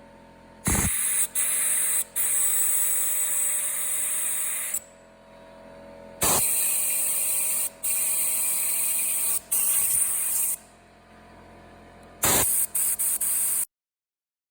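Pressurised spray hissing in long bursts of about four seconds, each broken by brief gaps, then a few short quick squirts.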